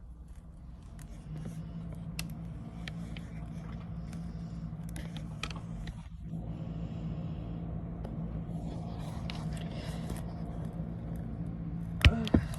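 Handling noise: scattered small clicks and scrapes over a steady low hum, with two sharp knocks near the end.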